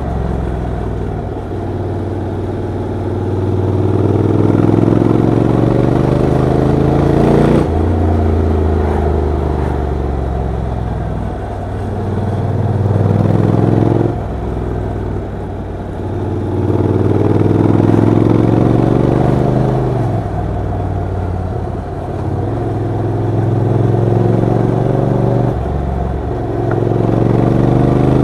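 Honda NC750X parallel-twin motorcycle engine and exhaust under way, its note climbing steadily as it accelerates and then dropping sharply, about four times, as at gear changes.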